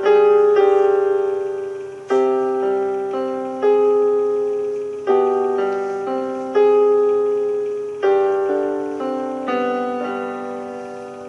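Music only: a slow piano passage between a song's sung lines, chords struck about every second and a half and left to ring and fade, dying away near the end.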